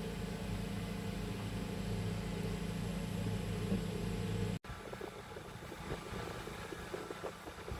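An engine running steadily with a low, even hum, cut off abruptly about four and a half seconds in by a switch to quieter background sound.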